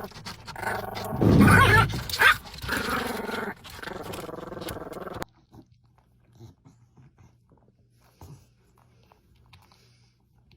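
A dog growling loudly and excitedly for about five seconds, then cut off suddenly, leaving only faint low hum.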